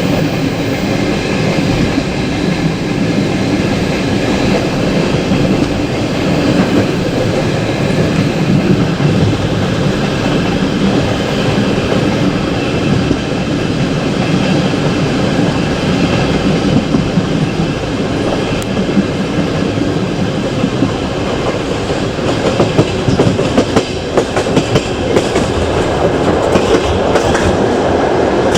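Passenger train running on the rails, heard from a carriage: a steady rumble of the running gear with the wheels clattering over rail joints. There is a spell of sharper knocks near the end.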